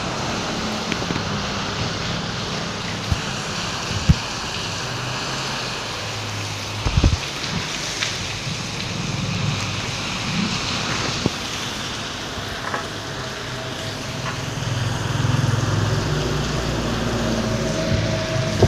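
Steady rain falling, an even hiss, with the low hum of a vehicle engine coming and going and a few sharp knocks.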